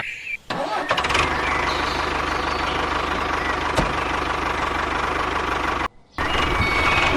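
An engine starting and then running steadily with a low, rapid chug, cut off briefly twice: once just after it starts and once near the end.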